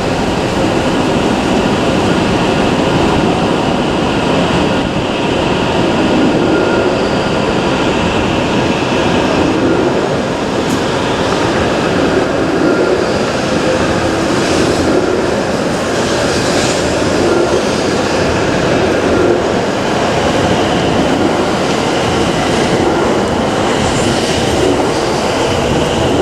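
Shinkansen train running: a steady, loud rumble of wheels and machinery with faint steady tones over it.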